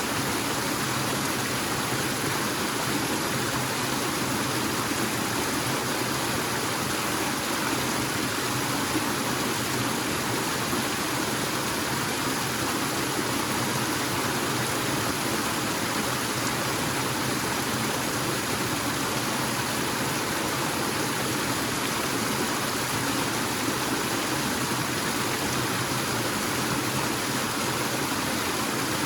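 Waterfall pouring steadily, an even wash of falling water with no change throughout.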